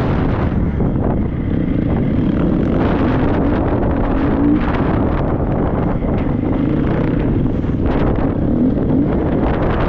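Triumph 250 motocross bike's engine running under riding, its pitch rising and falling with the throttle, over heavy wind rumble on the microphone.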